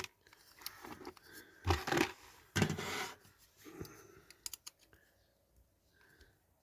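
A small tool scraping and clicking against the metal tabs of a diecast model car as they are levered up: a few short scrapes in the first three seconds, then scattered light clicks.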